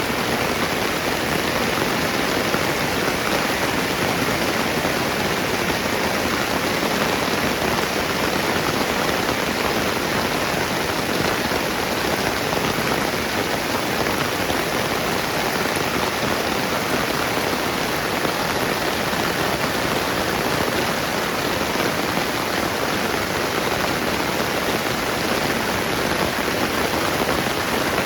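Steady rainfall, an even dense hiss that doesn't change or break.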